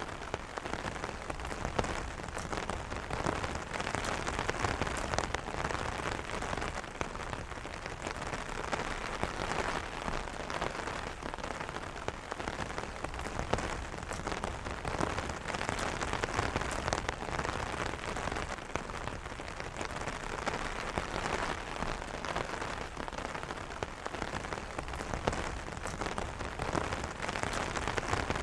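Steady rain pattering on an umbrella canopy: a dense, even patter of many individual drop hits.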